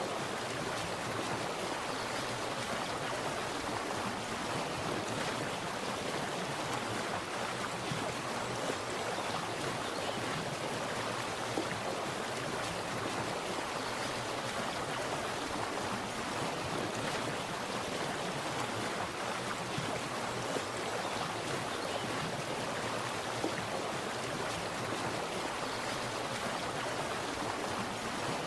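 Water splashing and rushing steadily, an even hiss with no breaks and only small flickers in level.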